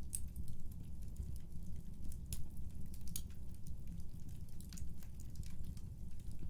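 Wood fire crackling: irregular sharp snaps and pops, several a second, over a steady low rumble of burning.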